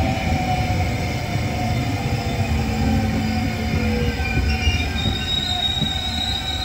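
Trenord TSR double-deck electric multiple unit rolling past the platform as it slows, with a falling whine and a high steady brake squeal starting about five seconds in.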